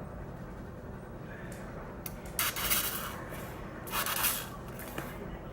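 Two short hissing spurts, the first about two and a half seconds in and the second about a second and a half later, like air or liquid forced out through a nozzle.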